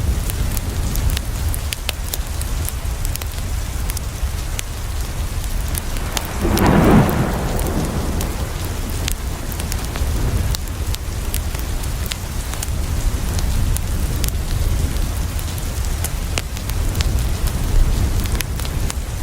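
Steady rain on a window with a constant low rumble beneath it and scattered sharp crackles from a wood fire. A short roll of thunder swells and fades about six to eight seconds in.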